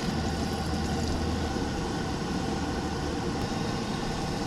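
Potato pancakes frying in a pan of hot oil, a steady sizzle.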